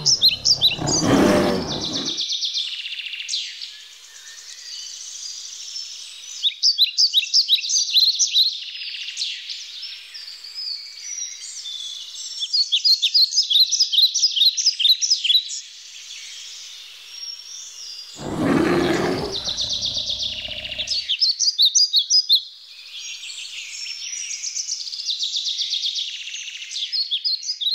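Woodland songbirds singing, song after song of rapid, high chirping trills. A short rushing noise comes in the first two seconds, and a longer, louder one of about three seconds comes about two-thirds of the way through.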